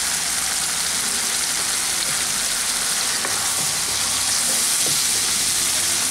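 Tomato-onion masala frying in oil in a nonstick kadai with a steady sizzle. A wooden spatula stirs the freshly added ground spices and turmeric through it as the masala is fried down.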